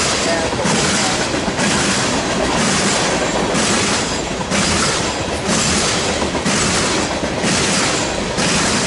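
A BNSF freight train's cars rolling past at speed. The wheel-and-rail noise surges and dips in a steady rhythm, about every 0.8 seconds.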